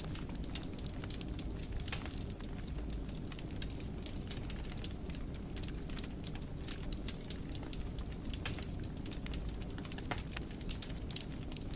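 Wood fire burning in a fireplace, a steady low rumble of the flames under frequent, irregular sharp crackles and pops.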